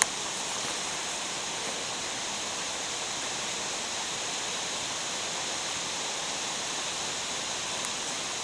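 Steady rush of water from a mountain stream or waterfall in a gorge, an even hiss without break.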